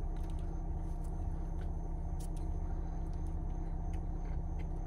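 Steady low engine hum inside a car cabin, with a few faint crunching clicks of two people chewing Pop-Tarts.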